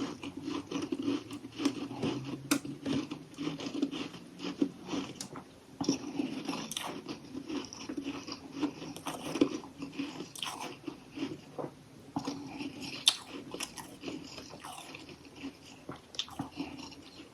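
Close-up chewing of crunchy chunks of humidifier-made freezer frost, a dense run of crisp, irregular crackling crunches.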